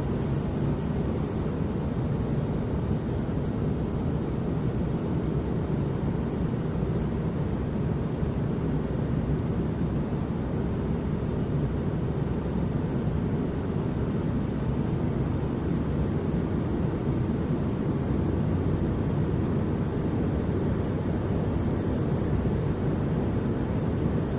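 Steady, unchanging deep noise with no breaks, most of it low in pitch with little hiss on top: a white-noise sleep sound for babies.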